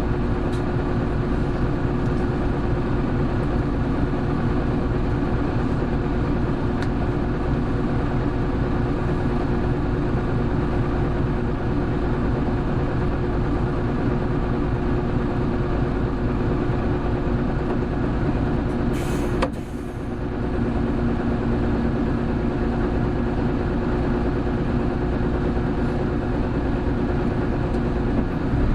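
Hino Blue Ribbon City Hybrid bus (BJG-HU8JLFP) running under way, its engine and drivetrain giving a steady tone with overtones. About two-thirds of the way through there is a brief drop in level with a short hiss, and the tone then settles lower, like a gear change.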